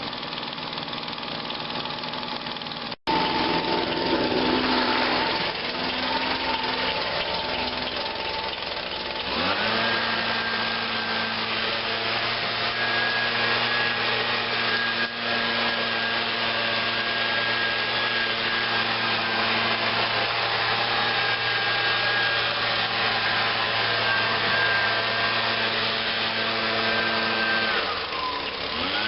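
Echo PB-251 two-stroke handheld leaf blower engine idling while it warms up after a cold start. About a third of the way in it is throttled up to a steady high speed, then it drops back to idle near the end.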